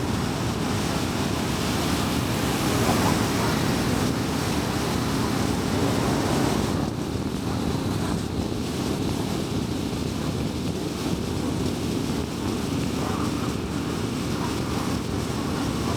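Steady road and tyre noise of a car driving at highway speed, a low rumble with a hiss above it; the hiss eases about seven seconds in.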